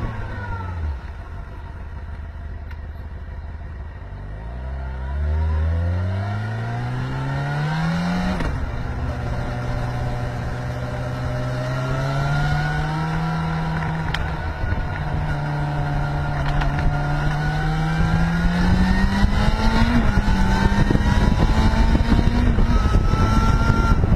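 Motorcycle engine slowing, then accelerating through the gears: its pitch falls and settles low for a few seconds, rises, drops at a gear change about eight seconds in, then climbs steadily again with another shift near the end.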